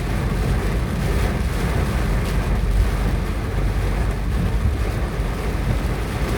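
A storm of hard rain and hail driven by strong wind, the wind buffeting the microphone into a steady low rumble.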